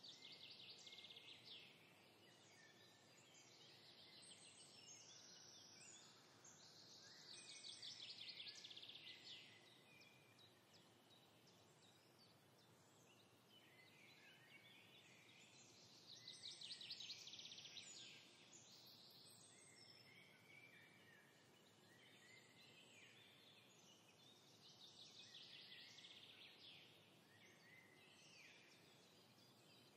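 Faint bird trills, a rapid chattering phrase repeating about every eight or nine seconds, over a soft background hiss.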